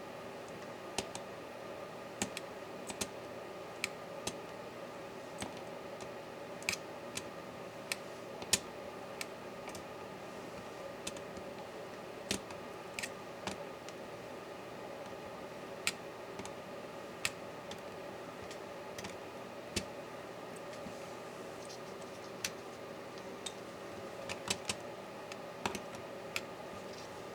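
Irregular small clicks and taps of hand tools and small laptop parts being worked during a MacBook Pro teardown, a few dozen sharp ticks scattered unevenly, over a steady low hum.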